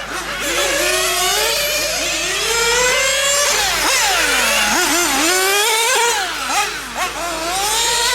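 High-revving glow-fuel engines of 1/8-scale RC cars running on a track, their whine rising under throttle and falling off again and again, with more than one engine heard at once. The pitch drops low about four to five seconds in and again near seven seconds, then climbs back.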